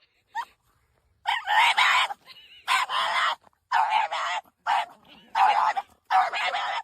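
A dog giving a string of about seven harsh, raspy calls in quick succession, each up to about half a second long.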